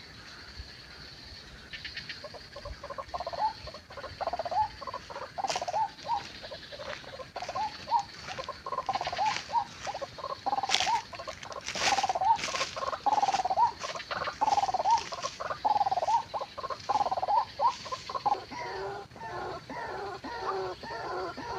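White-breasted waterhen calling: a long run of repeated, croaking call notes, several a second, that starts about three seconds in and speeds up into a quicker, more even series near the end.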